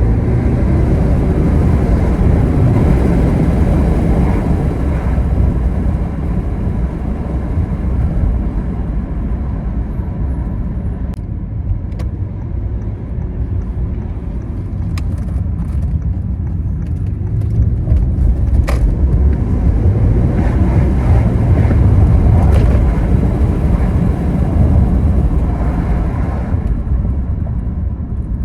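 2014 Audi A8 L's 4.0-litre twin-turbo V8 and tyres while driving: a steady low rumble with the engine pitch rising and falling a few times, and a few sharp clicks.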